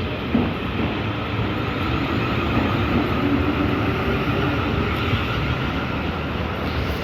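Train running past at the platform: a steady rumble of wheels on the rails with a faint hum over it, swelling a little in the middle.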